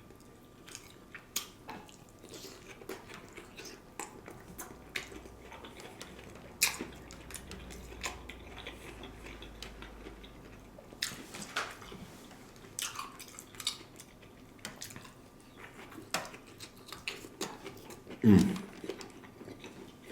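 Close-up chewing and wet mouth sounds of a man eating stuffed bell peppers, with scattered clicks of utensils against a plate. A brief low hum comes near the end.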